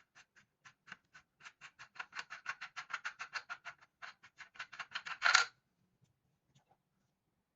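A run of rapid mechanical clicks that speeds up from about three to about six a second, ending in a louder rattle about five seconds in, then stops.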